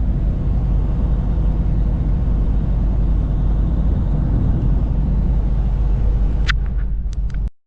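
Steady low drone of a semi-truck's engine and tyres, heard inside the cab while driving. A few short clicks come near the end, then the sound cuts out for a moment.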